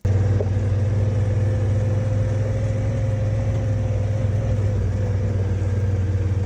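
A motor vehicle's engine running steadily at a constant speed, a deep even drone with a steady higher hum over it, starting abruptly.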